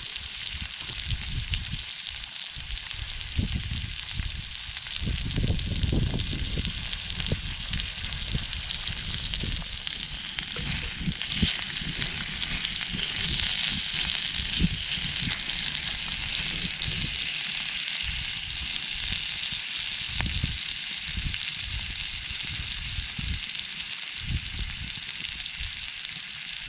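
Meat sizzling on a small iron griddle over a wood campfire: a steady hiss with irregular pops and crackles, with fat flaring in the fire.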